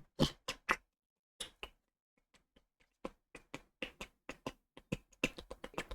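Sharp, irregular clicks or taps: three at the start, a pair about a second and a half in, then a quicker, uneven run from about three seconds in.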